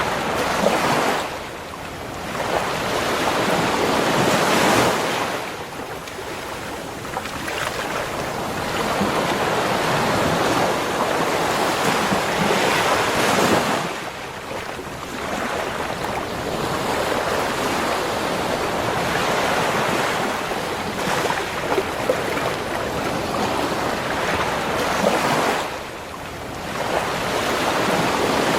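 Ocean waves breaking and washing up the shore, the surf swelling and ebbing every few seconds.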